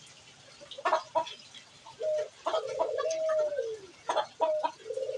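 Domestic pigeons cooing. A long rolling coo about two seconds in drops in pitch at its end, and shorter coos follow near the end, among short sharp clucking calls.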